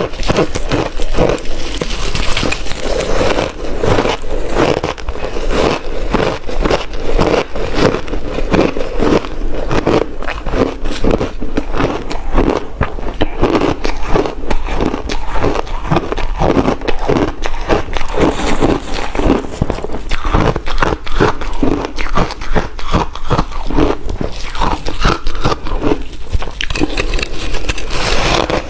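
Close-miked biting and chewing of ice: a dense, unbroken stream of loud crunches and crackles as the ice cracks between the teeth.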